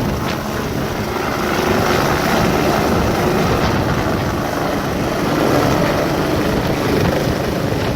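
Helicopter running steadily, its rotor and engine noise holding at one level.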